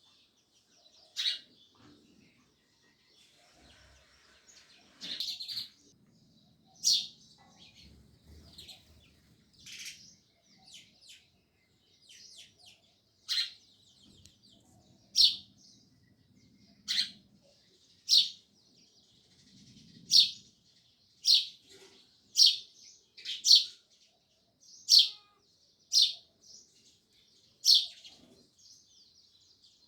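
House sparrows chirping: loud single chirps, a few seconds apart at first, then about one a second in the second half, with softer twittering between them.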